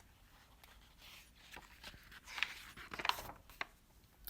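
Faint rustling of paper with a few soft clicks, building over a couple of seconds: a picture book's page being turned.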